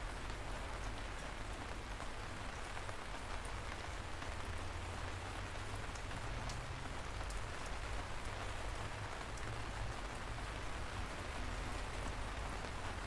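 Steady light rain falling, an even hiss with scattered small drop patters and a low rumble underneath.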